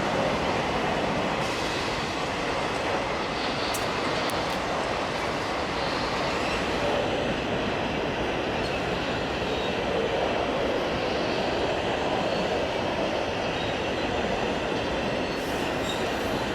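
Freight train wagons rolling steadily past on the rails: a constant rumble and rattle, with faint wheel squeals now and then.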